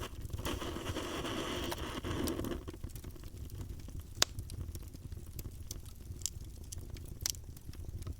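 Campfire burning: a steady low rumble of flames with scattered crackles and pops, one sharp pop about four seconds in. A soft hiss runs through the first two seconds or so, then stops.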